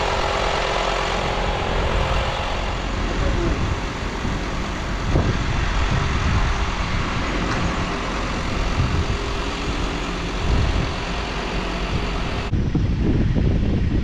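A vehicle engine idling steadily while a flat battery is charged through jump leads. Near the end it cuts off abruptly to wind buffeting the microphone.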